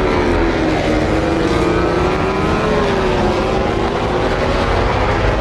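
Racing motorcycle engines running hard, their pitch drifting down and back up as they come off and onto the throttle.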